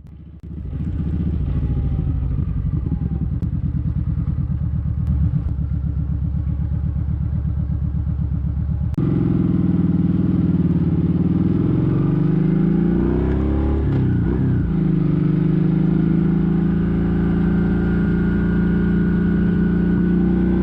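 Kawasaki Vulcan 1700 Vaquero's V-twin engine running while the motorcycle is ridden. The sound gets louder half a second in and changes abruptly about nine seconds in. The engine note then falls and climbs again about two-thirds of the way through.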